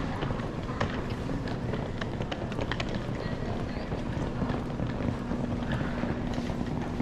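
Airport terminal background noise: a steady rumble with scattered clicks and knocks, and a low steady hum that comes in about halfway through.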